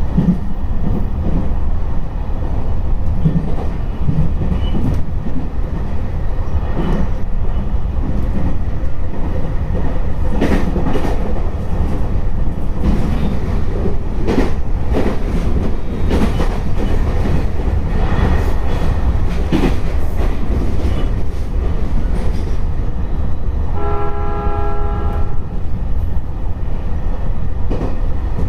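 Running noise of an E721-500 series electric train at speed: a steady low rumble with wheels clicking over rail joints. About 24 seconds in, a train horn sounds one short two-tone blast.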